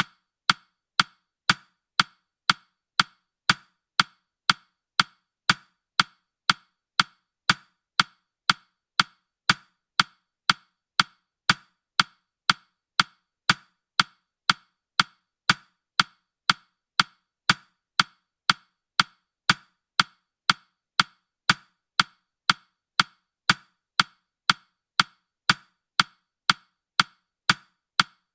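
Clock-tick sound effect of a countdown timer: sharp, evenly spaced ticks, about two a second, never changing pace.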